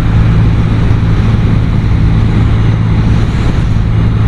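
BMW R100RS's air-cooled flat-twin boxer engine running steadily under way, with loud wind rush over the microphone.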